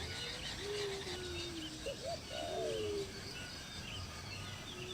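Birds calling: several drawn-out low calls that slide in pitch, with faint short high chirps over them.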